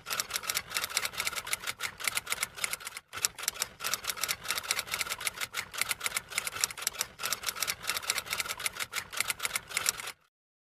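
Typing sound effect: rapid key clicks, several a second, with a brief pause about three seconds in, stopping shortly before the end.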